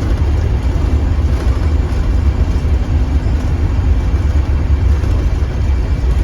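A 2015 Blue Bird Vision school bus running, heard from inside: a steady low engine and road rumble.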